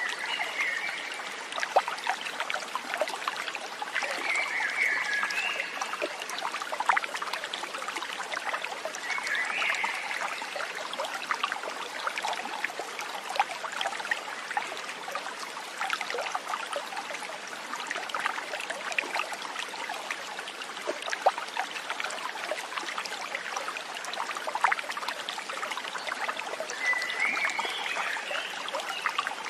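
Water trickling and splashing steadily in a small stream. Four short chirping calls sound over it: near the start, around four and ten seconds in, and near the end.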